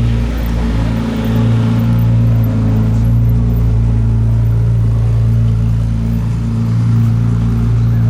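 A car engine running at low, steady revs: a deep, even rumble with no revving rise or fall.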